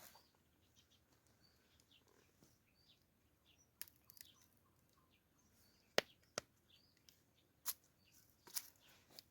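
Several sharp clicks and knocks, about six of them, scattered through the second half, over faint bird chirps.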